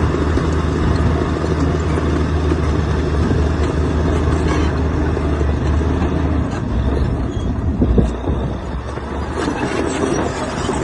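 Heavy diesel engine of earth-moving machinery running steadily with a low drone. The drone changes about two-thirds of the way through, and a brief louder thump follows soon after.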